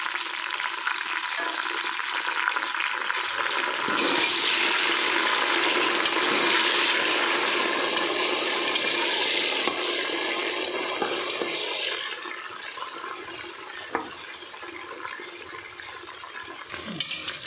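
Fresh mint and coriander leaves sizzling in hot oil with onions as they are stirred in a pressure cooker, the wet leaves wilting. The sizzle swells about four seconds in and dies down after about twelve, with a single knock later on.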